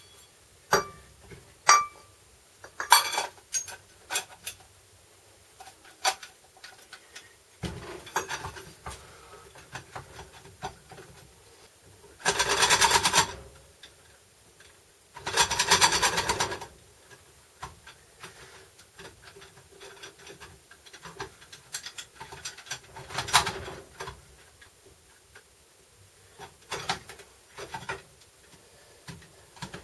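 Hand tools and metal parts being handled while a transfer case is reassembled: scattered clicks and clinks, with two longer noisy bursts of about a second and a half each near the middle.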